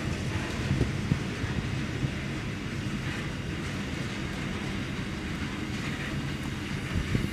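Double-stacked container wagons of a freight train rolling past: a steady low rumble of steel wheels on the rails, with a few brief knocks, as the tail end of the train goes by.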